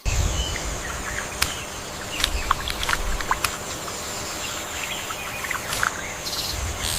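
Jungle ambience: a steady high insect drone with scattered short bird chirps and clicks over a low rumble.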